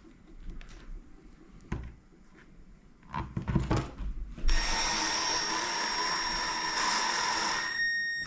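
A handheld power tool, drill-type, runs steadily for about three and a half seconds starting about halfway in, then its motor whines briefly as it winds down. A few knocks of tools being handled come before it.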